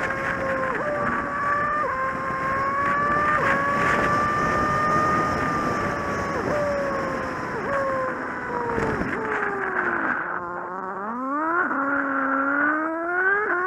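Kawasaki Z750 motorcycle engine running at road speed, with wind rushing over the microphone. About ten seconds in, the wind noise fades and the engine note drops low. It then climbs again in several rising steps as the bike accelerates through the gears.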